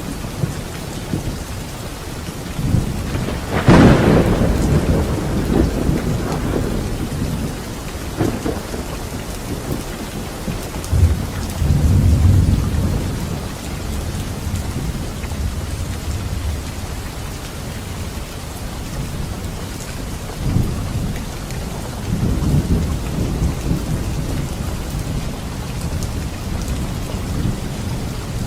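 Steady heavy rain in a thunderstorm, with a sharp thunderclap about four seconds in and low rolling thunder rumbling twice later on.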